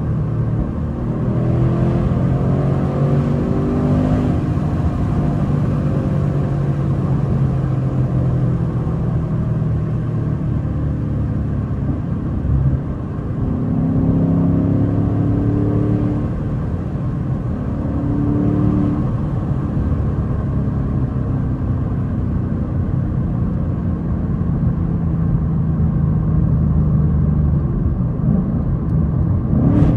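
2024 Mustang GT's 5.0 L V8 running while the car is driven, heard from inside the car. The engine note climbs in pitch under throttle several times, near the start and twice in the middle, with a short drop in level about 13 seconds in.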